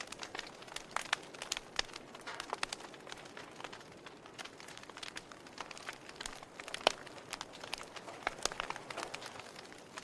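Wood fire burning in a fireplace, crackling with irregular sharp pops and snaps over a soft hiss, one louder pop about seven seconds in.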